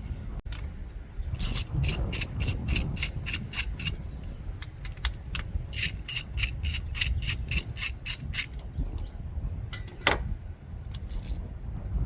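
Ratchet wrench clicking in two runs of quick, even clicks, about four or five a second, while the fuel pressure sensor on the fuel rail is being unbolted or bolted in. A few sharper knocks follow near the end.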